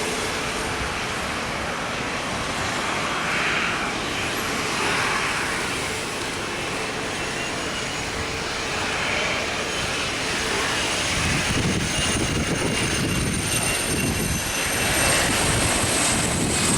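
Jet airliner's engines: a high whine that slowly falls in pitch over a steady hiss, with a low rumble building in the second half as the aircraft comes closer.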